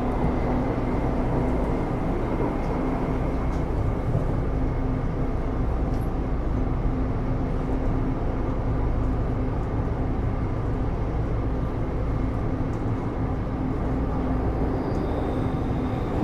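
Taipei Metro Series C301 metro car running at a steady speed, heard from inside the car: an even rumble of wheels on rail with a constant low hum. A faint high tone comes in near the end.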